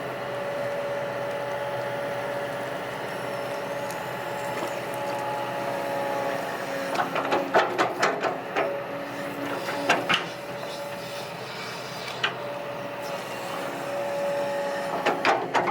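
Kobelco SK200-8 Super XM excavator running with a steady mechanical whine. A run of sharp clanks and knocks comes about seven to ten seconds in, and a few more near the end.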